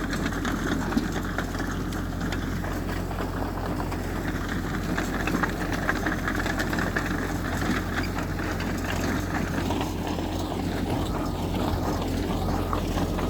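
Diesel engine of heavy earthmoving machinery running steadily, a low rumble with a constant fine clatter over it.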